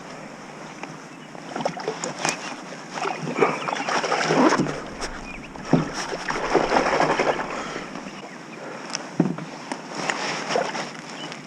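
Water splashing and sloshing around a kayak, in uneven swells, with a few sharp knocks against the hull.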